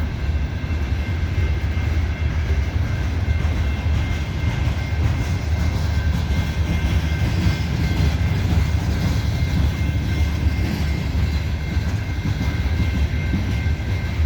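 Loaded coal hopper cars of a freight train rolling slowly past: a steady low rumble of steel wheels on rail, with a faint steady high-pitched squeal over it.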